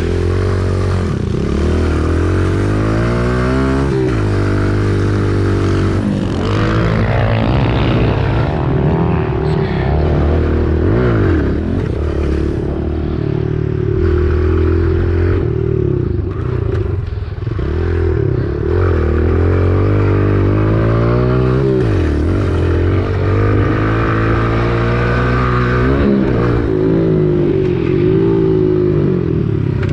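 Kawasaki KLX110 pit bike's small four-stroke single-cylinder engine being ridden hard, its pitch rising and dropping again and again with throttle and gear changes.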